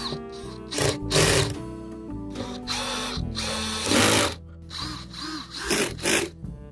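Power tool running in several short bursts, the loudest about a second in and about four seconds in, over background music.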